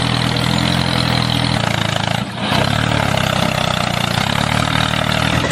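A motor running steadily with a low hum, dropping out briefly about two seconds in and then picking up again.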